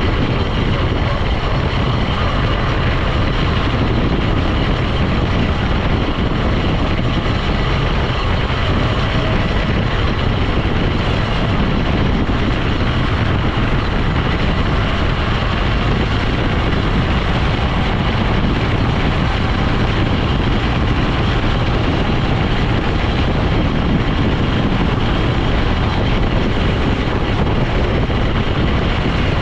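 Steady vehicle running noise while driving: engine and road noise mixed together, without a change in pitch or any single sudden sound.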